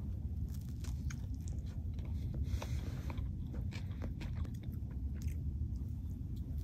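A person biting into a toasted bread roll filled with mayonnaise-dressed fish and chewing it, with many small irregular mouth clicks and smacks, over a steady low rumble.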